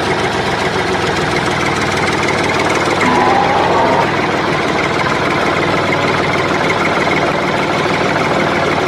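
A small motor running steadily with a continuous rattling buzz. A brief higher tone sounds about three seconds in.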